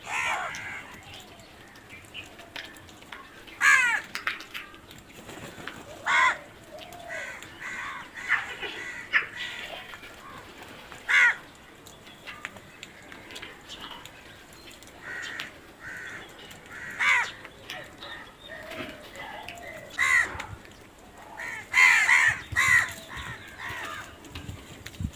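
Crows cawing: loud, harsh single caws every few seconds, with fainter calls from other crows in between and a quick run of caws a little before the end.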